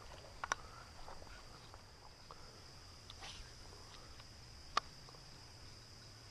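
Insects droning steadily with a high, even buzz, with a few sharp clicks, the loudest about half a second in and near five seconds in.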